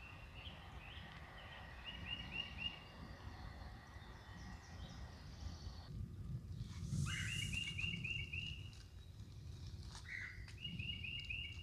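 Outdoor woodland ambience: a songbird repeatedly singing short runs of quick, evenly spaced notes, over a faint low rumble. A brief hiss comes about seven seconds in.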